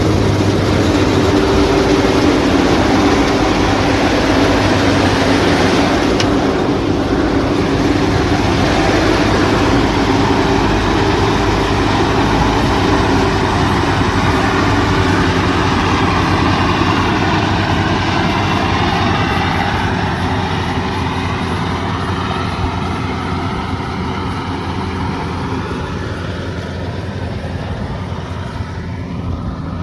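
Combine harvester running steadily: engine hum and the clatter of its cutting and threshing machinery, growing gradually fainter over the last ten seconds or so.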